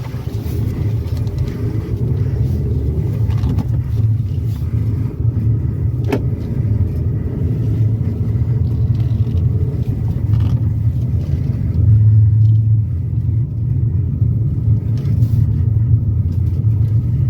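Maruti Suzuki Brezza driving, a steady low road rumble with one sharp click about six seconds in.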